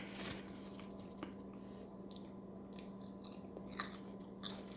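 A person chewing fast food close to the microphone, with a few faint, scattered mouth clicks.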